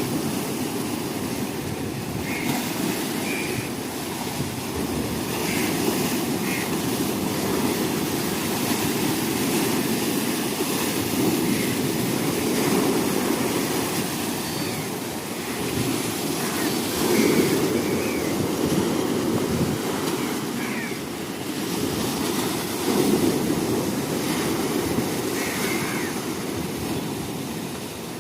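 Rough water: waves surging every few seconds over a steady low rumble.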